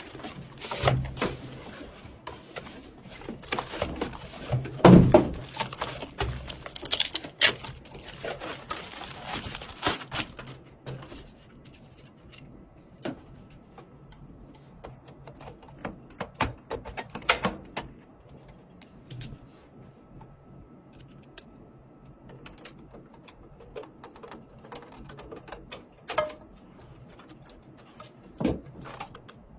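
Irregular clicks, knocks and rustling of objects being handled, busiest in the first ten seconds with the loudest knock about five seconds in, then only a few scattered clicks.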